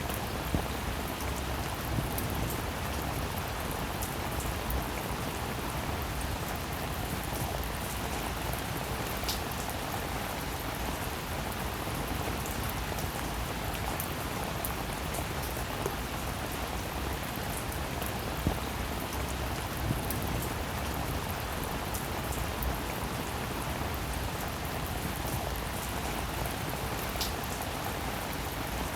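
Steady rainfall, an even hiss with scattered sharper drop hits, a few of them standing out a little louder.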